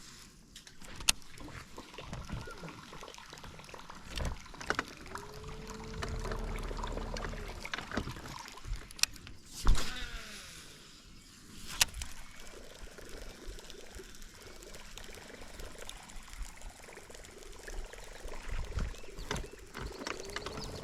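Water sloshing and trickling around a small fishing boat, with scattered clicks and knocks. A short hum rises and then holds steady about five seconds in, and starts again near the end.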